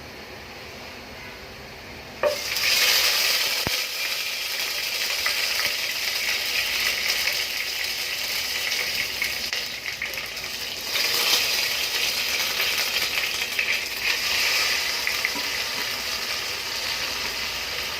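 Onions and whole spices frying in hot oil in a pan while being stirred. A faint sizzle turns suddenly into a loud, steady sizzle about two seconds in, and it swells again about eleven seconds in.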